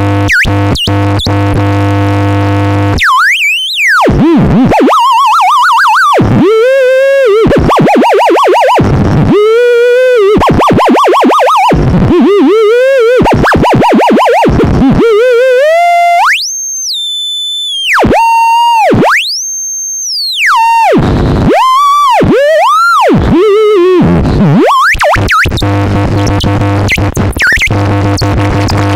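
Experimental electronic music. A buzzing drone with a low hum gives way about three seconds in to a single pure electronic tone swooping up and down in arcs and quick wobbles, twice climbing to a high whistle near the middle. The drone returns near the end.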